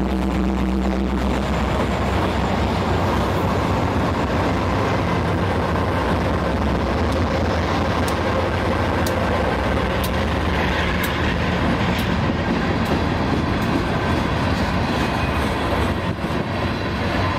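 Diesel freight train passing close by: GE road locomotives, a CN C40-8 and then BNSF C44-9Ws, running past, followed by loaded freight cars rolling by on the rail. It is steady and loud, with scattered sharp wheel clicks from about 8 to 12 seconds in.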